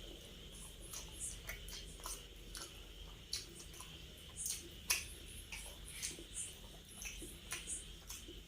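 A person eating close to the microphone: irregular wet mouth clicks and smacks while chewing, with one sharper click about five seconds in.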